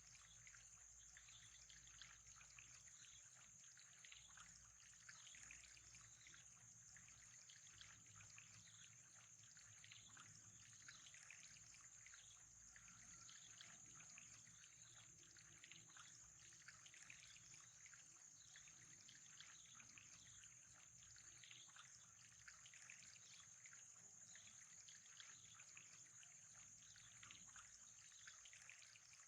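Faint, steady trickle and splashing of water from an aquarium filter's outflow, with a thin steady high whine behind it.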